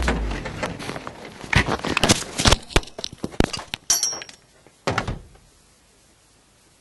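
Rally car crashing: the engine note cuts out at the start, then a run of loud knocks, bangs and crunches over about four seconds as the car goes off and strikes the ground, stopping about five seconds in.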